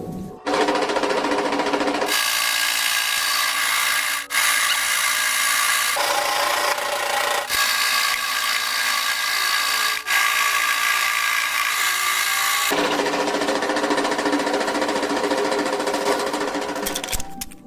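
Electric power tool's motor running under load, a loud whine whose pitch shifts down and up several times, with a few short dips where the load eases.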